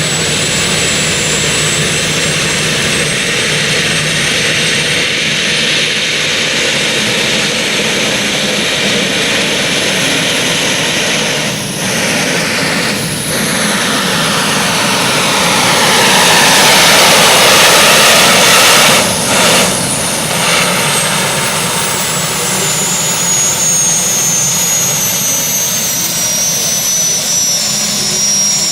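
Modified pulling tractor running at full power down the track: a loud, steady engine noise with a high whine over it. It is loudest around the middle, and near the end the high whine falls in pitch as the engine winds down.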